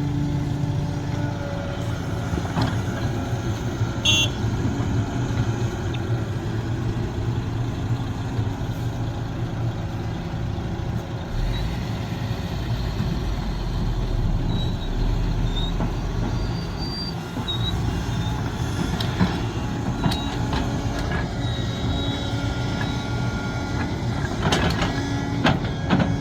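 Sumitomo SH370LHD-6 excavator's diesel engine running steadily under work, with a few sharp knocks near the end.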